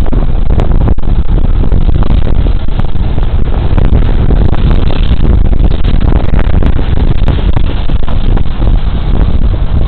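Loud, steady wind buffeting on a body camera's microphone while riding a Suzuki Burgman Street 125 scooter at speed, mixed with the scooter's engine and road noise.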